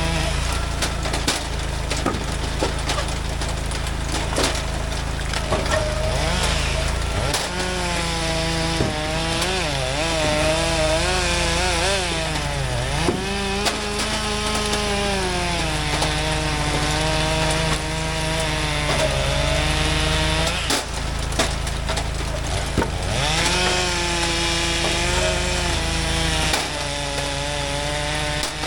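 Chainsaw running through a cut, its engine pitch sagging under load and climbing back as it clears, several times over. A steady low engine drone runs beneath it.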